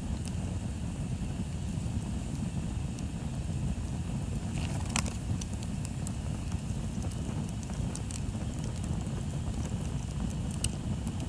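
Outdoor bonfire crackling, with scattered sharp pops and one louder snap about five seconds in, over a steady low rumble.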